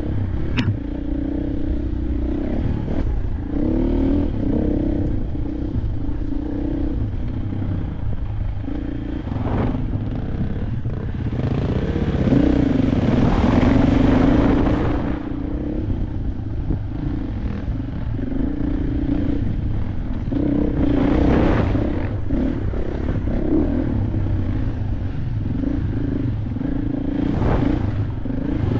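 KTM 500 dirt bike's single-cylinder four-stroke engine running under way, its pitch rising and falling with the throttle. It gets louder in a long burst of throttle about twelve to fifteen seconds in, and again briefly a little after twenty seconds.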